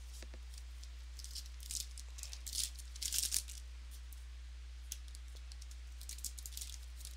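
Trading cards being slid apart and flipped through by hand, in two bursts of crisp clicking and rustling, the cards sticking together as they are separated. A steady low hum runs underneath.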